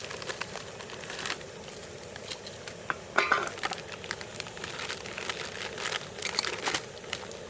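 Handling noise: scattered crinkling and light clicks and clinks, with a louder clatter about three seconds in.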